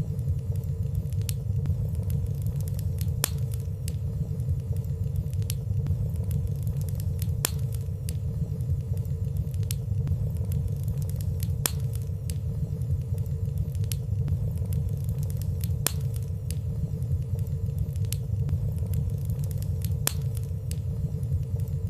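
Wood fire burning in a fireplace: a steady low rumble of the flames with faint, scattered ticks of crackling every second or two and no loud pops.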